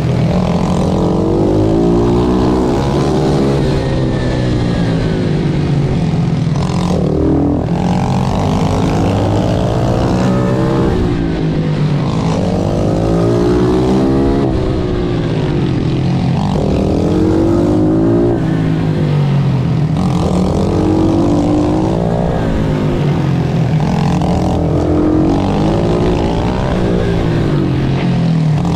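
Pit bike's single-cylinder engine at racing pace, heard from on board: it revs up and drops back over and over as the rider accelerates, shifts and rolls off for corners.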